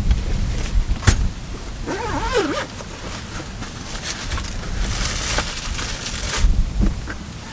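Strong wind buffeting the microphone with a steady low rumble. A sharp click comes about a second in, a short wavering squeak follows around two seconds, and a burst of hiss runs from about five seconds to six and a half.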